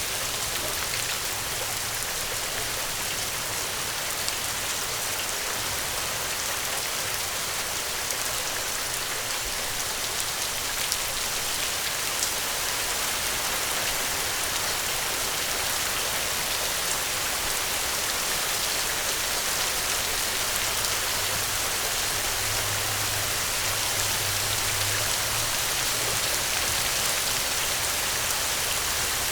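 Steady rain falling on a surface: a dense, even patter of many drops with no let-up.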